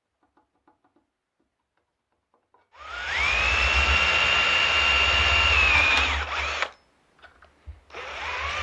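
Electric drill running: a few faint handling clicks, then the motor spins up to a steady high whine for about four seconds and winds down. After a short pause it starts up again near the end.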